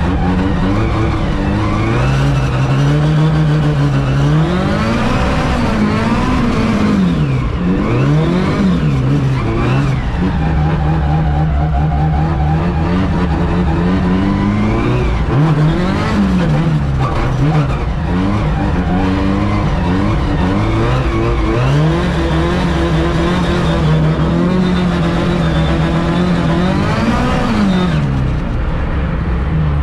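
Classic LADA's four-cylinder engine heard from inside the cabin, revving up and down again and again as the throttle is worked on and off through drifts on ice, holding steady revs in between.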